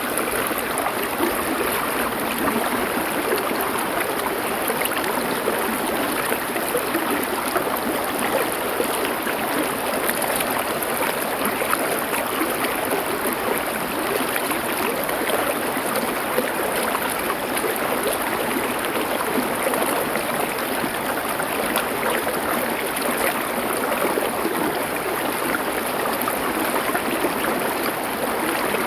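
Stream water rushing and splashing over stones, a steady dense hiss with fine bubbling detail that does not change.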